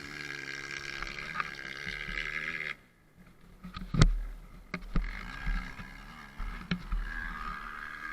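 Dirt bike engine running with a wavering pitch, cutting off abruptly a little under three seconds in. A few sharp knocks follow, the loudest about four seconds in, as the engine sound returns more weakly.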